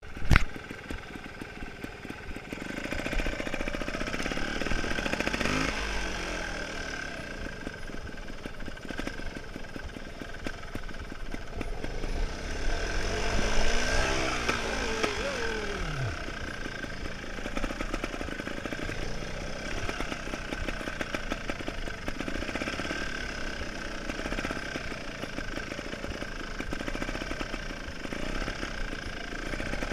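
Beta Rev 3 trials motorcycle engine running at low revs while being ridden, with a sharp knock at the very start. The revs rise and fall briefly about five seconds in, then climb again to the loudest point about fourteen seconds in before dropping back to a steady low chug.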